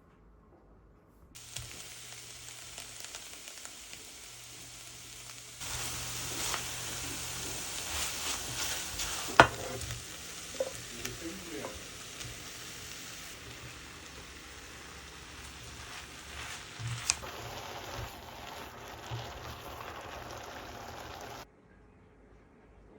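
Food sizzling as it fries in a pan, with stirring and a sharp clink of a utensil against the pan about nine seconds in. The sizzle stops and starts several times at edit cuts.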